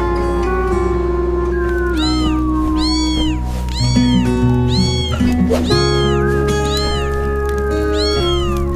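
A cat meowing repeatedly: about seven short meows, each rising then falling in pitch, starting about two seconds in, over background music with sustained tones.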